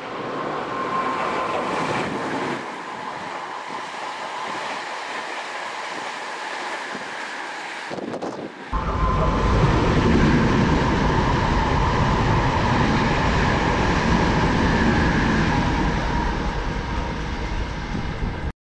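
Hankyu electric train approaching on a curve, steady tones over the running noise of wheels on rail. About nine seconds in this gives way abruptly to a louder train running past a station platform close by, with a heavy rumble of wheels on track that eases slightly near the end.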